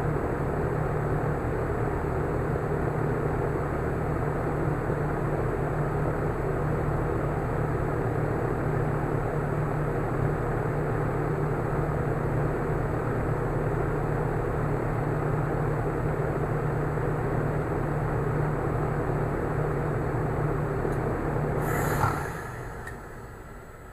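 2010 Tempstar heat pump outdoor unit running steadily with a low hum. About 22 seconds in there is a sharp click and short hiss, and the running sound shuts off and fades away.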